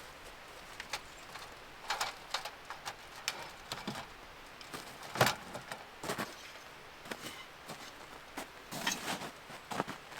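Irregular clicks and knocks of objects being handled, one louder knock about five seconds in, over a low steady background.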